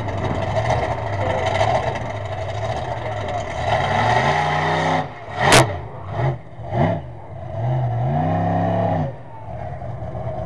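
Monster truck engine running, then revved in several short blips and one longer rev that rises and falls. About halfway through comes one sharp, loud bang.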